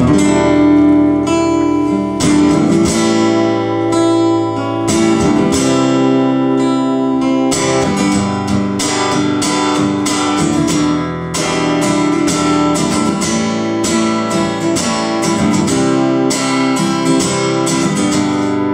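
Acoustic guitar strummed in a steady rhythm, playing the chords of a song's introduction.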